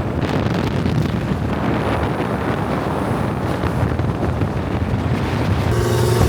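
Steady car and traffic noise with wind rumbling on the microphone.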